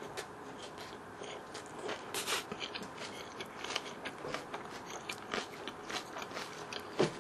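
Close-miked chewing of a mouthful of food, with small wet mouth sounds and light, irregular clicks of cutlery on dishes.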